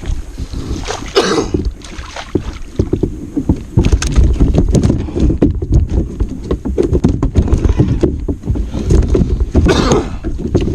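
Knocking and clattering on a fishing kayak over a heavy low rumble of handling and wind on the microphone, as a large chain pickerel is fought at the boat.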